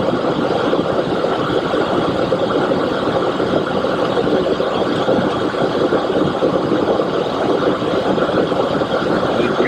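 Steady rushing noise of airflow and engines inside a Boeing 727-200 cockpit during the climb after takeoff, flaps up. It stays even throughout.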